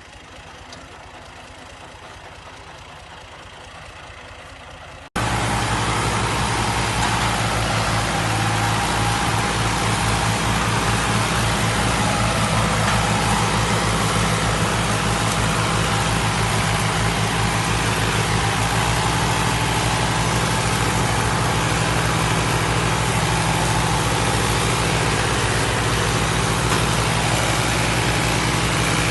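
Engine of heavy farm machinery running steadily at a constant speed, loud and close, starting abruptly about five seconds in after a fainter stretch.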